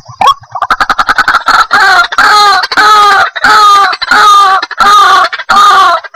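White-breasted waterhen calling. A quick run of clicking notes is followed, from about a second and a half in, by a string of repeated harsh 'kruak' calls, roughly one and a half a second. This is the bird's territorial call, the sound used to lure wild waterhens.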